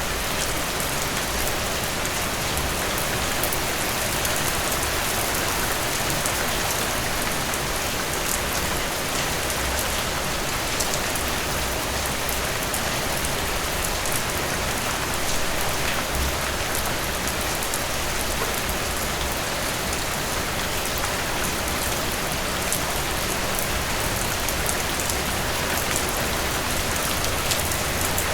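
Heavy rain falling steadily, a dense even hiss of many drops pattering on surfaces, without thunder.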